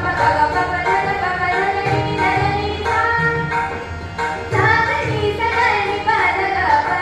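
A young girl singing a melodic song over musical accompaniment with a low drum beat.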